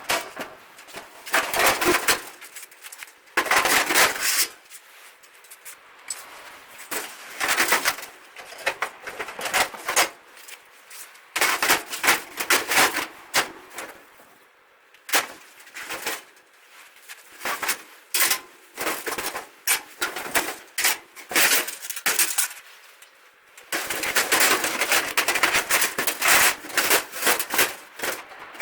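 Stick (arc) welding: the electrode's arc crackling and sputtering in a string of short bursts that start and stop abruptly, with one longer run of about four seconds near the end.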